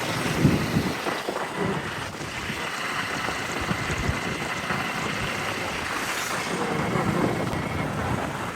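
Steady rushing noise with wind buffeting the microphone in irregular low gusts.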